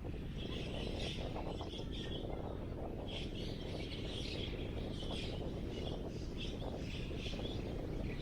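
Small birds chirping in quick repeated phrases over a steady low rumble of wind.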